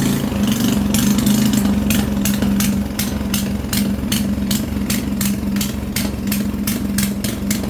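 Restored gasoline farm-machinery engine running steadily just after starting, a low hum with a regular ticking several times a second.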